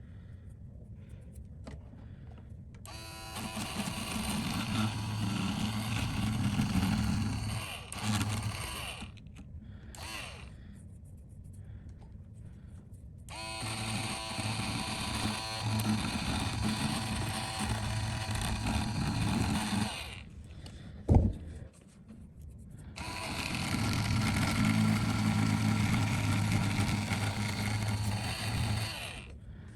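A small motor-driven tool is switched on three times, running steadily for several seconds each time, while leftover glue is cleared from the phone's OLED display. There is a single sharp knock between the second and third runs.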